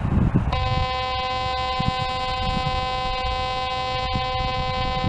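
MX50 metal detector's speaker sounding one long, steady tone over a buried target that it reads as a quarter. The tone comes on about half a second in, over a low rumble.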